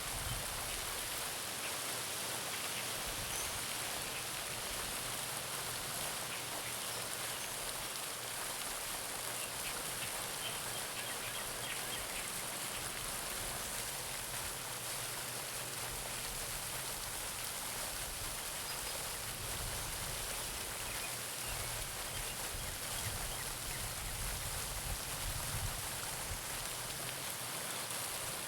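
Garden pond fountain splashing steadily, its falling water making an even hiss.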